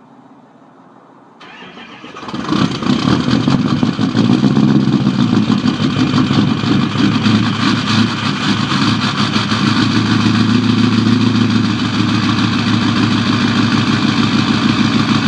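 2004 Ford F-350's 6.0 Power Stroke V8 turbo-diesel, fitted with a 4-inch straight pipe, cold-starting in sub-freezing cold: it starts up about two seconds in and then runs loudly and steadily at idle.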